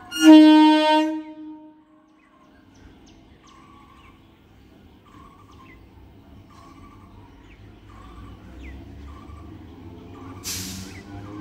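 Electric multiple unit (EMU) train sounding its horn once, a single steady note lasting about a second and a half, then its running rumble building steadily louder as it approaches along the track. Birds chirp faintly, and a short hiss comes near the end.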